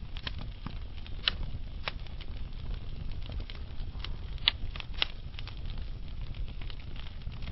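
Wood fire in a fireplace crackling, with scattered sharp pops from the burning logs over a low steady rumble; the loudest pops come about a second in and again around four and a half to five seconds in.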